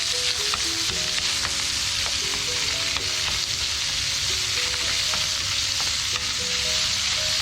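Bacon and onion sizzling steadily in a frying pan as they are stirred, with a few light clicks of the utensil against the pan.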